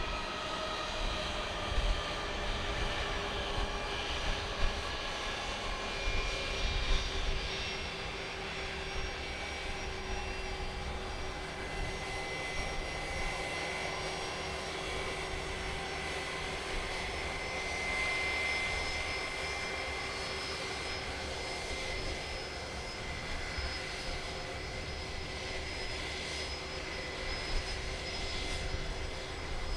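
Jet airliner engines running at low taxi power: a steady multi-tone whine over a low rumble. The tones drift slightly down in the first few seconds.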